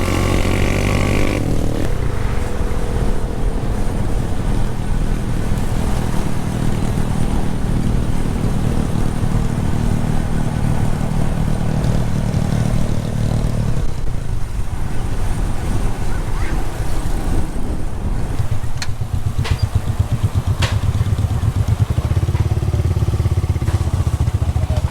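Motorcycle engine running steadily while riding. The engine note changes about halfway through, and a few sharp clicks come later.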